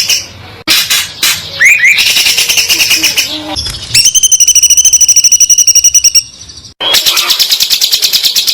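Songbird song: rapid, high trills of fast-repeated notes, with sweeping whistled calls in between, in several bursts separated by short gaps.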